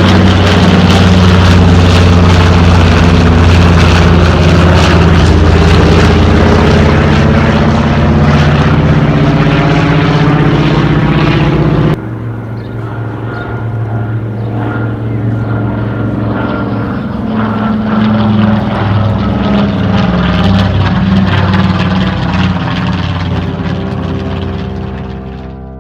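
TBM Avenger's radial engine running loud as the plane flies past, then a sudden cut to a second, quieter pass with the engine note shifting in pitch, fading away near the end.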